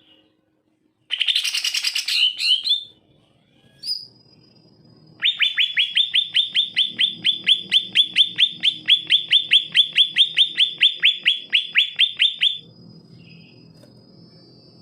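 Cucak ijo (green leafbird) singing: a short burst of fast chattering about a second in, then a long run of rapid repeated notes, about five a second, that stops suddenly near the end. A faint thin high tone holds after it.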